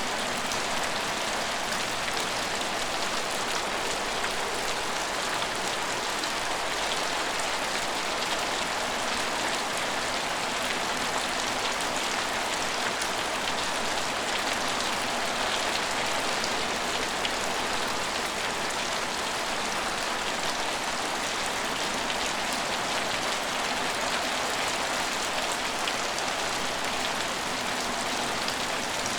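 Steady rain falling and pattering on hard surfaces, an even hiss with fine drop ticks throughout.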